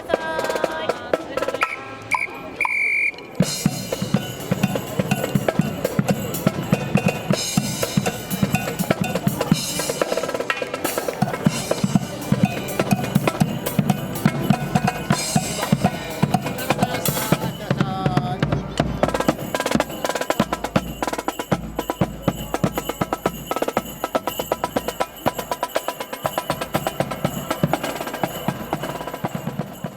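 Marching band drum line, snare and bass drums, playing a steady marching beat. The band's sustained chords stop about three seconds in, and the drums carry on alone.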